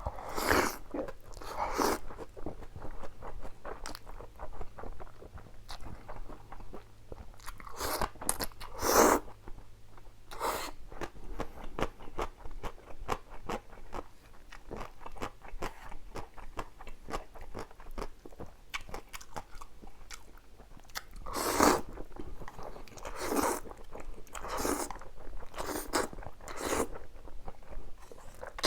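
Close-miked eating of spicy stir-fried instant cup noodles: steady chewing with quick wet mouth clicks, broken by a few louder slurps of noodles.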